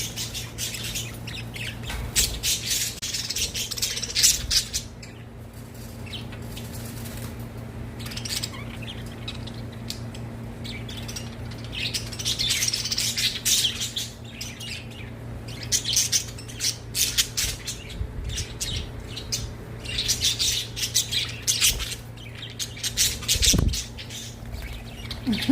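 Pet budgerigars chirping and chattering in bursts lasting several seconds, over a steady low hum.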